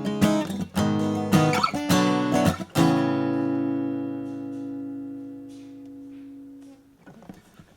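1947 Martin D-18 dreadnought acoustic guitar strummed and picked, ending about three seconds in on a chord that rings and slowly fades before being damped about seven seconds in.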